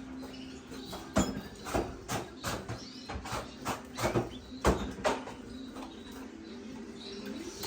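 A quick run of about a dozen sharp knocks or taps over some four seconds, with faint bird chirps and a low steady hum beneath.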